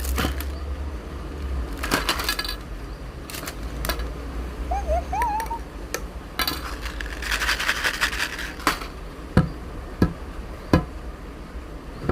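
Slime being handled, giving scattered sharp clicks and pops and short squishy rustling patches, with a brief wavering squeak about five seconds in.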